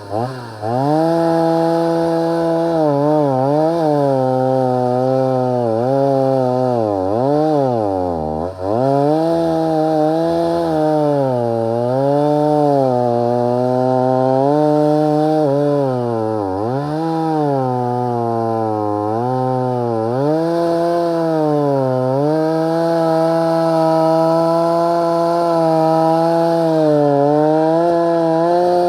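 Stihl MS 290 two-stroke chainsaw running under load as it cuts dry, hard wood. Its engine pitch sags repeatedly as the chain bites and then recovers, dropping deepest about eight seconds in.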